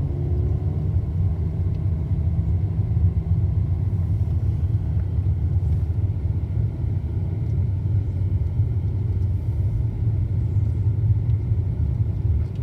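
Steady low rumble of a car's engine and tyres, heard from inside the moving car as it climbs a hill.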